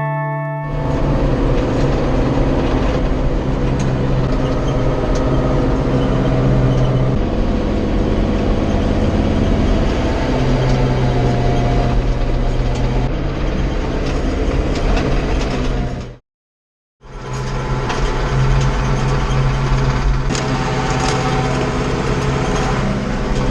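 Farm tractor's diesel engine running steadily while working a field, with mechanical clatter over the engine note. The sound cuts out for under a second about two-thirds of the way through, then resumes the same.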